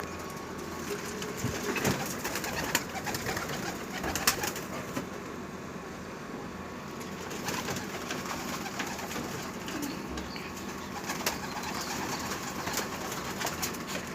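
Domestic pigeons cooing in a loft, with scattered sharp clicks and rustles from the birds moving about.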